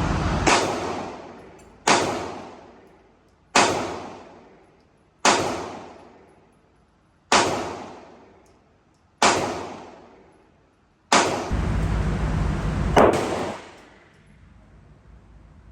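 Gunshots at a shooting range: about eight shots at a steady pace, one every couple of seconds, each followed by a long echoing decay. There are two stretches of loud steady noise, one right at the start and one about two seconds long toward the end.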